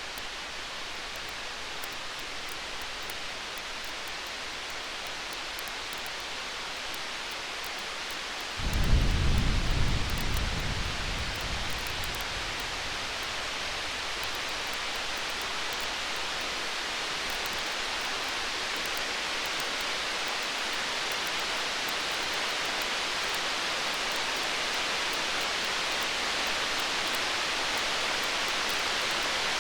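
Distant thunder rumbles once about nine seconds in and fades away over a few seconds, over a steady hiss with faint crackles.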